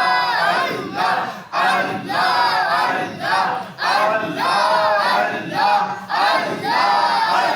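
Congregation chanting dhikr together, a rhythmic group chant of short repeated phrases with brief breaks between them.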